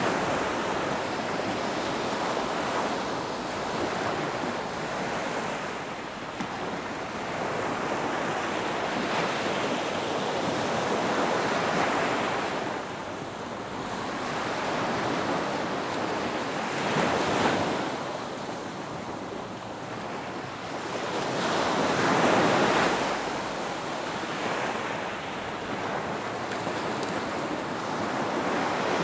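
Ocean surf breaking on a beach: waves swell in and wash out in a continuous rush of water, rising and falling every few seconds, with the strongest breakers about 17 and 22 seconds in. Some wind on the microphone.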